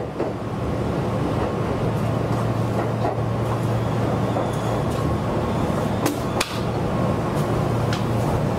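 Meitetsu 6800-series electric train pulling away from a station stop. Its running hum builds over the first second, then holds steady, with a few sharp clicks about three and six seconds in.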